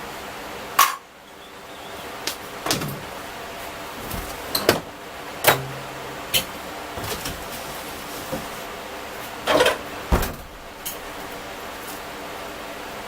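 A series of sharp knocks and clanks, a few seconds apart, over a steady background hum, typical of parts and tools being handled while a car's engine bay is stripped down.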